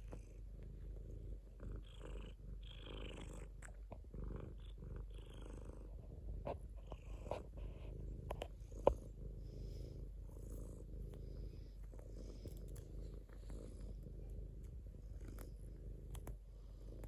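Domestic cat purring steadily as a continuous low rumble, with scattered soft clicks and rustles and one sharp click about nine seconds in.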